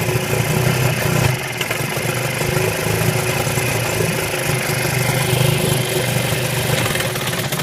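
Eska 7.5 hp two-stroke outboard motor running in a test barrel of water, sounding a little bumpy because the engine is still cold.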